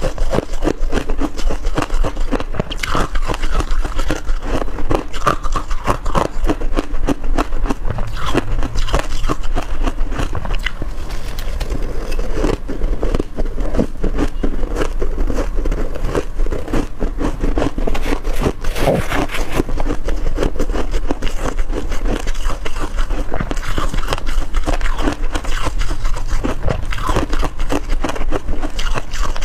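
Close-up crunching of freezer frost being bitten and chewed, with scraping and a dense, continuous crackle. A steady low hum sits underneath.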